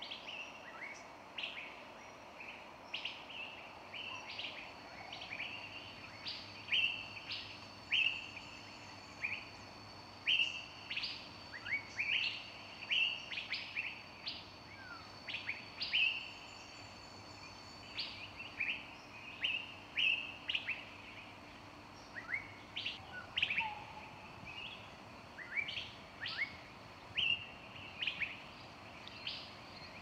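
Small songbirds chirping in a forest: short, sharp high notes repeating one to two times a second, some sweeping downward. Thin, steady high tones run underneath for stretches, over a faint even hiss.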